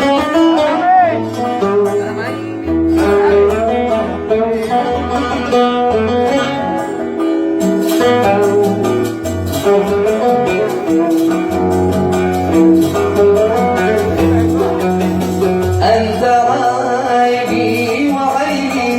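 Oud playing a continuous run of plucked notes, an instrumental passage of a Yemeni Sanaani song.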